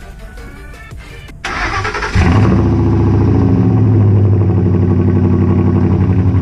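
A Ford F-150 pickup engine cold-starting: a brief crank about a second and a half in, then it catches and settles into a loud, steady idle.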